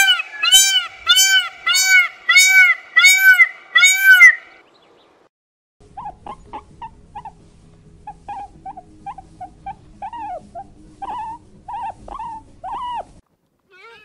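Indian peafowl (peacock) calling: a quick series of about nine loud, arched honking calls about half a second apart, stopping suddenly. After a short pause comes a run of much softer short, high squeaks over a low rustle.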